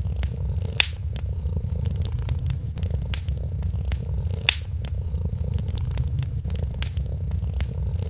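A cat purring steadily with a low, continuous rumble, over a wood fire crackling in frequent small clicks, with two louder pops, about a second in and around the middle.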